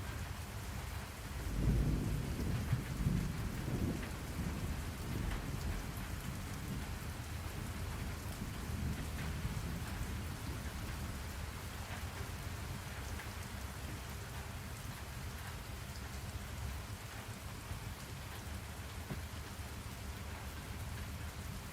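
Steady rain falling, with a roll of thunder that rumbles up about a second and a half in, is loudest for the next couple of seconds and then slowly dies away under the rain.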